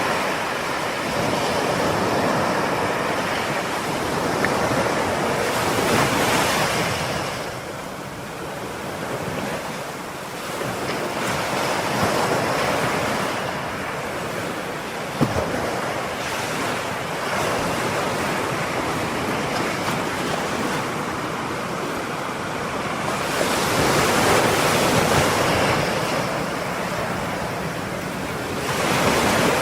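Ocean surf breaking on a shore: a continuous wash of wave noise that swells with each breaker and ebbs between them every several seconds, with one brief tick about halfway through.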